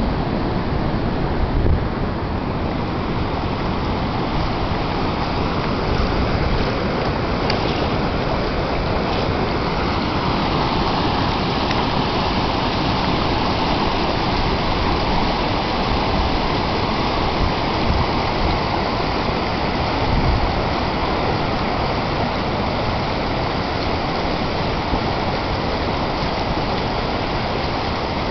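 A river in flood rushing past: a steady, unbroken noise of fast, high water.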